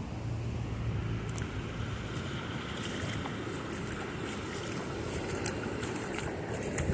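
Outdoor water and wind noise, with a low steady engine-like hum that fades out about a second and a half in, and light high crackling through the later part.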